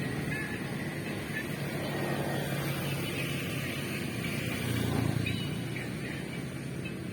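A motor engine running steadily, swelling in loudness about five seconds in, with faint high chirps over it.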